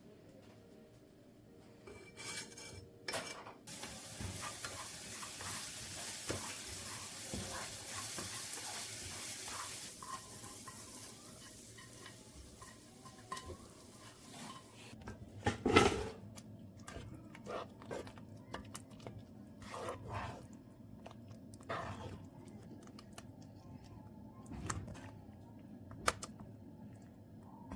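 Kitchen cooking sounds. Food sizzles in a pan for several seconds, then utensils and dishes clink and knock, with one louder clatter about sixteen seconds in.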